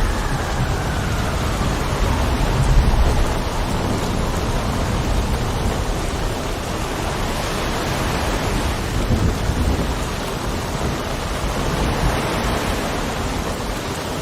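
Steady rain and wind, with a deep low rumble underneath that swells briefly about three seconds in.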